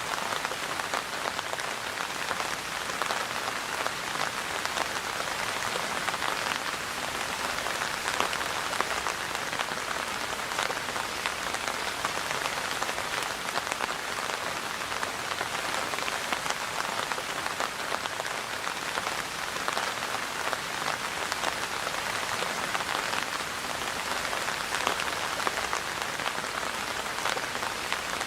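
Steady rain falling and pattering on a surface, a dense, even hiss full of small drop ticks.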